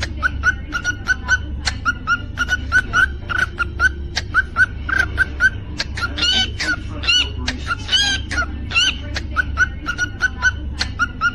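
Cockatiel chirping: quick, short whistled notes about three a second, broken now and then by longer rising whistles, over a steady low hum.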